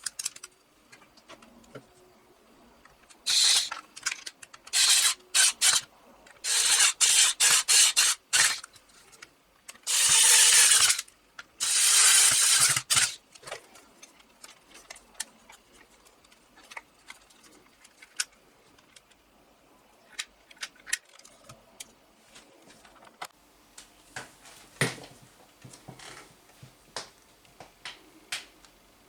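Bench handwork: several loud bursts of rapid rasping, ratchet-like strokes, the longest about a second each, followed by scattered light clicks and taps.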